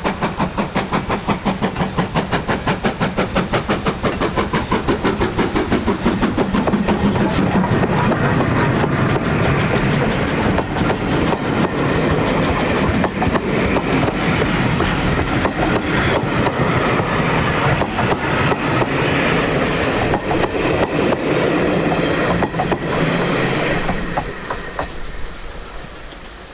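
A train passing close by: rapid, regular beats for the first few seconds, then the steady running noise of wheels on rail joints, falling away near the end.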